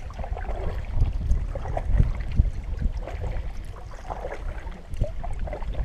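Gusty wind buffeting the microphone with a heavy, uneven rumble, over water splashing from a double-bladed paddle's strokes against a canoe.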